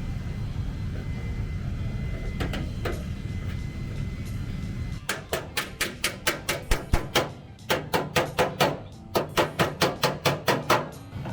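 Panel-beating hammer tapping on a car's sheet-metal body panel to work out a dent: two light knocks, then three quick runs of ringing strikes at about four to five a second with short pauses between them.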